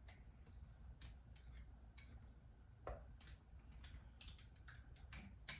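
Faint, scattered clicks and taps of a debubbling tool against the inside of a glass pint canning jar as air bubbles are worked out of the soup, with one sharper tap about three seconds in and a run of ticks near the end.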